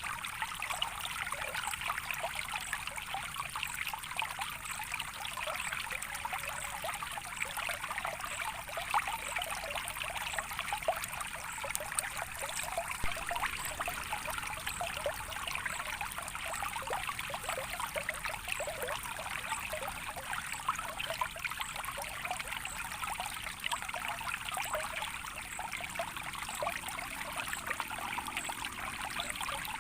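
Natural flowing water trickling steadily, a continuous babble of many small splashes.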